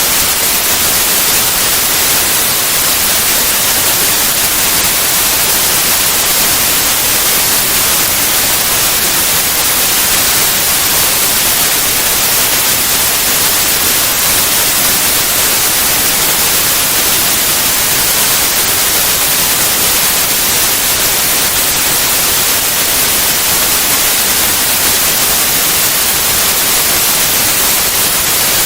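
Steady white noise: an even hiss, strongest in the highs, that never changes.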